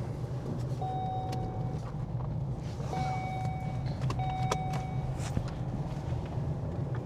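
Car running on the road, heard as a steady low rumble inside the cabin, with an electronic warning chime sounding three long beeps of about a second each.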